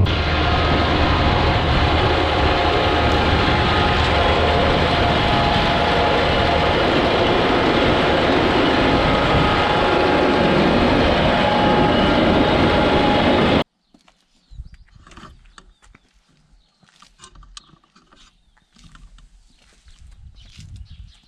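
Loud, steady rattle and rumble of a John Deere tractor pulling two loaded grain trailers. It cuts off abruptly about two-thirds of the way through, leaving quiet outdoor background with scattered faint knocks and rustles.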